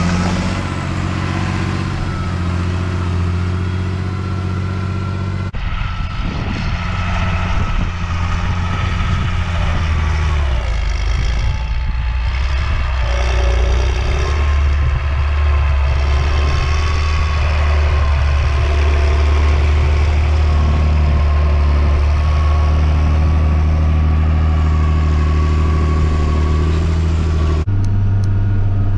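John Deere 8400 tractor's six-cylinder diesel engine running steadily, its pitch shifting a little, with abrupt cuts to another take about five and a half seconds in and near the end.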